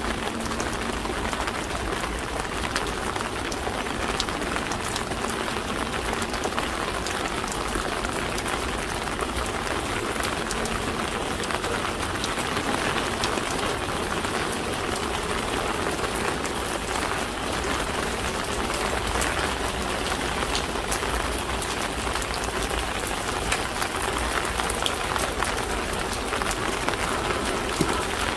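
Steady rain falling, a constant hiss scattered with many small drop ticks. A faint low hum fades out in the first few seconds.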